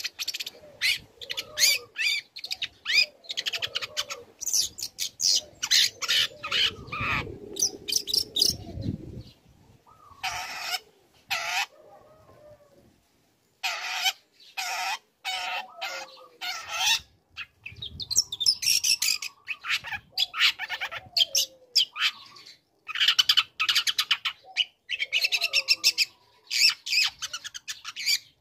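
Young long-tailed shrike (cendet) singing in fast runs of short, harsh chattering and squeaky notes, with a brief pause a little before the middle.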